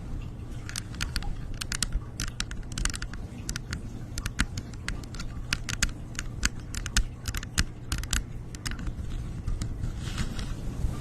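A run of quick, irregular light clicking taps, in clusters, stopping about nine seconds in, over a steady low hum.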